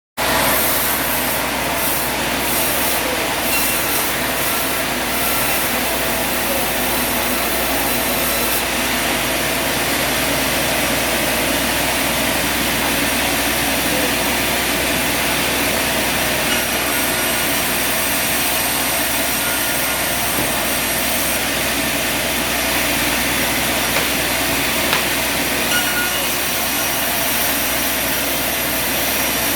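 Sawmill machinery running steadily, with a saw cutting through wood.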